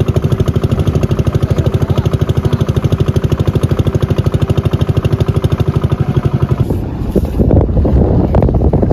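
A small engine chugging with a rapid, very even beat, which stops about seven seconds in and gives way to wind buffeting the microphone.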